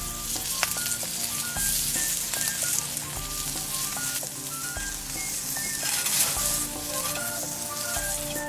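Food frying in a pan with a steady sizzle, over light background music of short plucked notes.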